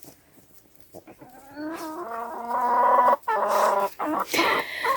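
Domestic chickens in a flock: after a quiet first second, a run of long, drawn-out calls, one after another, getting louder toward the end.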